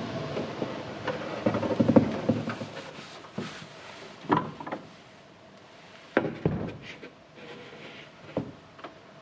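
Wooden shelf pieces being knocked and shifted into place: a cluster of knocks about two seconds in, then single knocks a couple of seconds apart.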